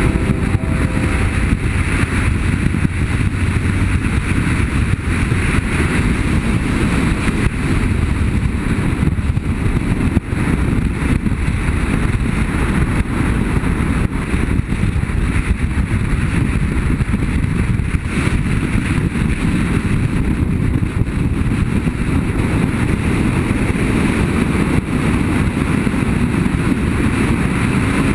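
BMW F800GS motorcycle engine running steadily under way, mixed with the rush of wind on the microphone.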